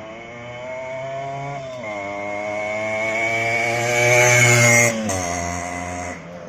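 Yamaha RX100's two-stroke single-cylinder engine running under throttle, its buzzing note climbing in pitch and loudness for a few seconds. The note then drops abruptly about five seconds in.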